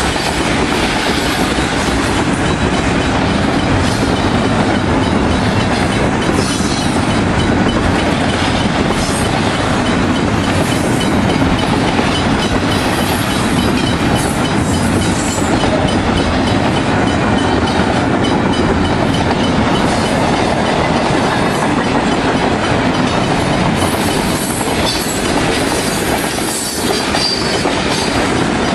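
A freight train's cars rolling past close by: a steady, loud noise of steel wheels on the rails, with scattered clicks as the wheels cross the rail joints.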